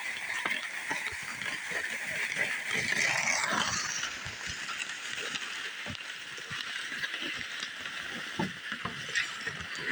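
A sled carrying a large dog being dragged slowly along the ground: a steady scraping hiss, loudest a few seconds in, with irregular footsteps and small knocks throughout.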